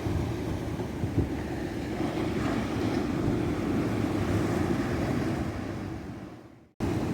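Ocean surf washing steadily onto a beach, with wind rumbling on the microphone. The surf fades out about six seconds in, goes silent for a moment, then cuts abruptly back in near the end, as at an edit or loop join.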